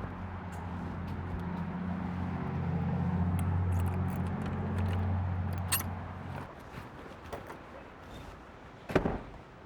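A motor vehicle's engine hums low and steady, growing louder, then cuts off about six and a half seconds in. Scattered light clicks and jangling follow, with one sharp click near the end.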